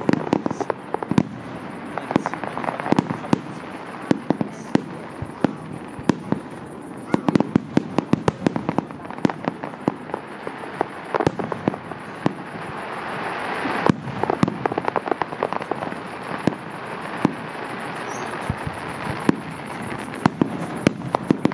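Fireworks display: a rapid, irregular series of aerial shell bursts going off one after another. A swell of noise builds and ends in a loud bang about two-thirds of the way through.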